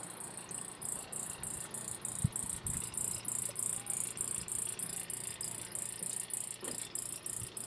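Insects, crickets or cicadas, chirping in a steady high-pitched pulse of about three to four chirps a second, with a soft low thump a little over two seconds in.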